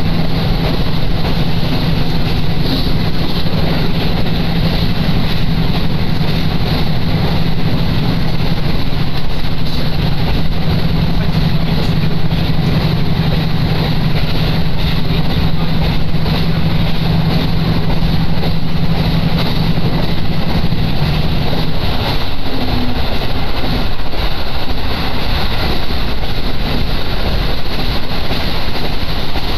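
Diesel railcar running, heard from on board: a loud, steady rumble and rush of the moving train with a steady engine hum that drops away about 22 seconds in, leaving the running noise alone.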